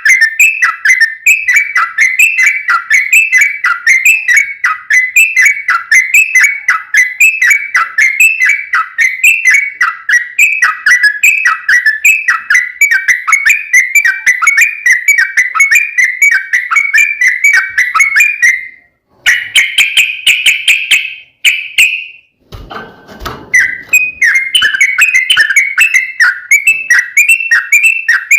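Yellow-vented bulbul (trucukan) singing a long, fast run of repeated whistled notes. About two-thirds of the way through, the run breaks off for a brief different buzzy phrase and a short low rustle, then the same rapid notes pick up again.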